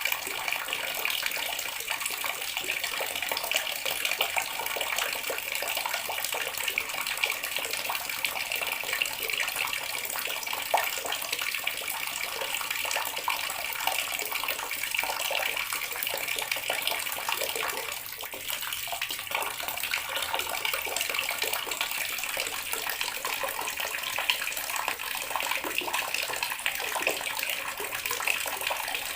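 Water running steadily from a tap and splashing into the water below, with a brief slight dip around the middle.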